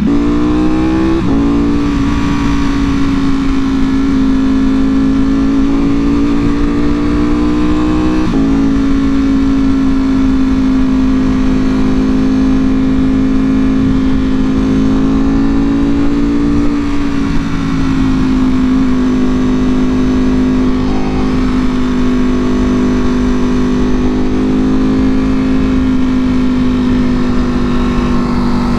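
Ducati Panigale V4R's V4 engine through an Akrapovic full exhaust, accelerating on the road: the pitch rises and drops at gear changes about one second and eight seconds in, then holds a steady note.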